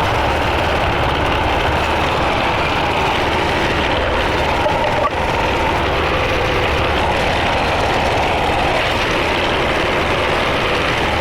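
Tractor engine running steadily while pulling field rollers, a constant mechanical drone with no change in pace.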